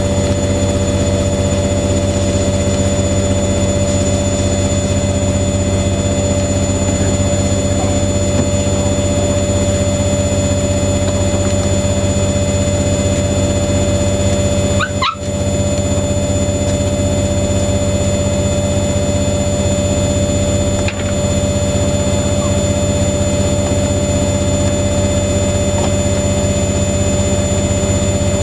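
Washing machines running, a steady loud hum with fixed high whining tones from the motors, typical of a high-speed spin. A brief high chirp comes about halfway through.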